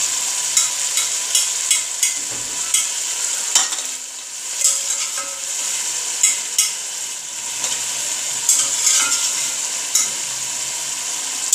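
Goat trotters sizzling in hot oil and spice masala in an aluminium pressure cooker while a steel ladle stirs them, with frequent short clicks and scrapes of the ladle against the pot. This is the bhuna stage, the trotters being fried in the masala.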